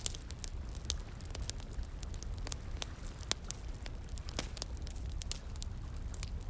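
Wood fire crackling, with many sharp irregular pops and snaps, over a steady low rush of flowing water.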